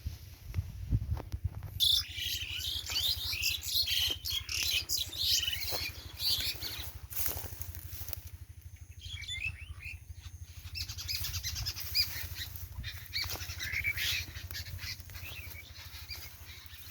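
A flock of small birds chirping busily, a dense tangle of quick high calls with a short lull about halfway through. A steady low hum and a few sharp clicks sit underneath.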